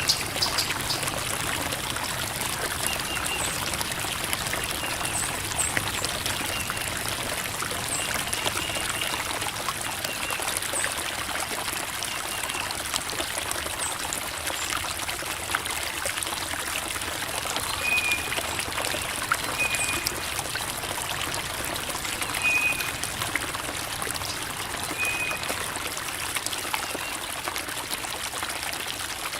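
Creek water babbling and trickling over rocks in a steady flow, with short high chirps recurring every few seconds.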